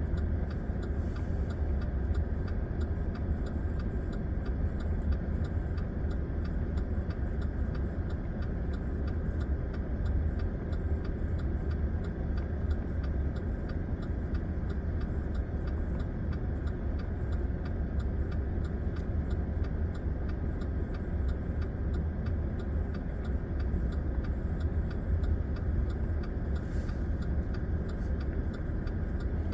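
Vehicle engine idling with a steady low rumble, heard from inside the cab, with a fast, regular ticking over it.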